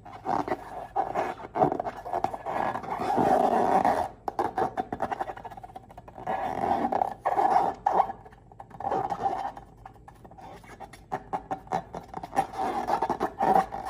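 Slime being squeezed and stretched by hand, wet squelching and crackling in irregular bursts.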